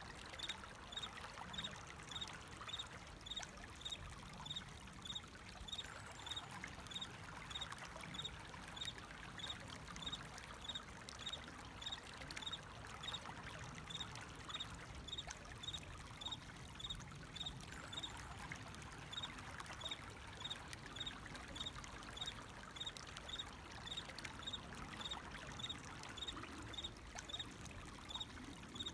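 A cricket chirping steadily, a short high chirp about every two-thirds of a second, over the continuous sound of flowing water.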